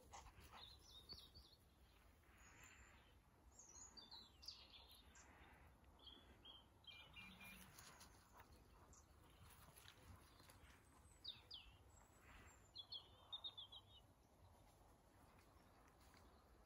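Near silence, with faint birds chirping now and then, a short run of several quick chirps around the 11- and 13-second marks.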